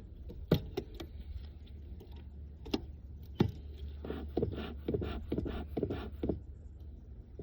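Sharp knocks and scraping as a hive tool pries at a stuck wooden beehive box, with a steady low rumble underneath.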